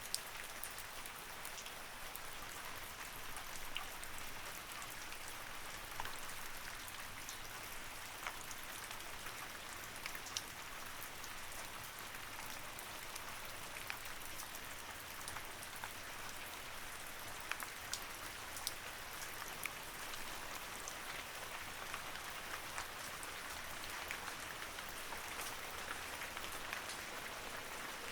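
Steady rain falling, with scattered sharper drops ticking here and there.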